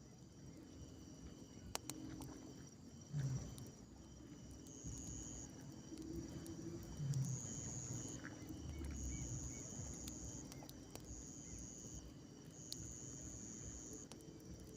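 Night insects trilling: a steady high chorus with a louder high trill repeating about every second and a half in the second half, plus a few sharp clicks.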